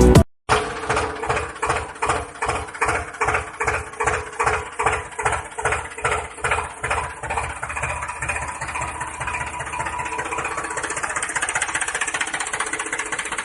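Small motor of a homemade model tractor running with a rhythmic chugging beat, about three beats a second, that quickens over the first eight seconds until it runs steadily.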